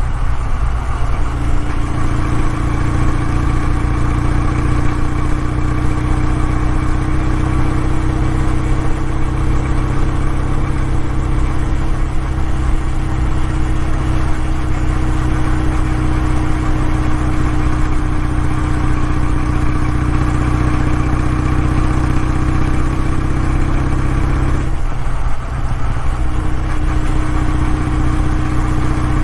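Kawasaki W650 air-cooled parallel-twin engine and exhaust running steadily with a low, even note. About 25 seconds in, the sound briefly breaks and dips, then settles back to a steady note.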